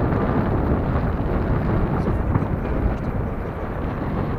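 Wind buffeting the microphone: a steady, rough low rumble with no clear tone.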